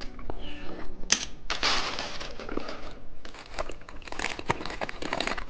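Plastic snack wrapper crinkling as it is handled and opened, in dense rustling bursts broken by a few sharp clicks.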